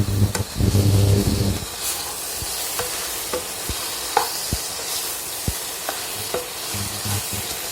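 Bread pieces coated in masala being stirred in a frying pan with a spatula, with a light sizzle, several sharp taps of the spatula on the pan and a few short scraping squeaks. A low steady hum sounds for the first second and a half.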